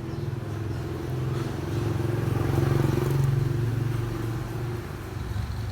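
A motor vehicle's engine, a steady low hum that swells to its loudest about three seconds in and then fades, as of a vehicle passing by.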